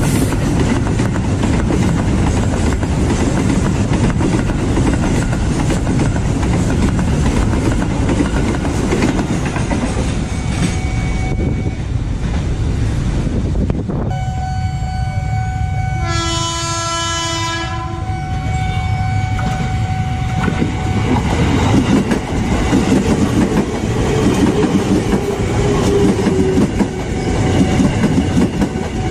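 A container freight train rumbling and clattering past at a level crossing. After an abrupt change about halfway through, a train horn sounds for about two seconds over a steady tone. Then an electric commuter train rumbles past close by, louder toward the end.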